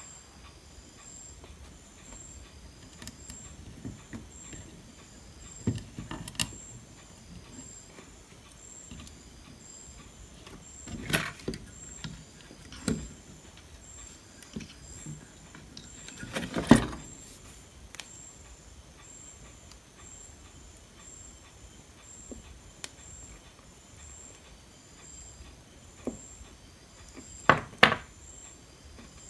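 Scattered small clicks and taps of tools and parts handled on a workbench during circuit-board repair work, with a louder knock a little past halfway and a quick pair of knocks near the end.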